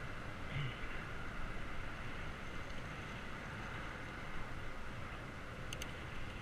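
Steady rush of wind and tyre noise from a bicycle being ridden with a GoPro, with two sharp clicks a little before the end.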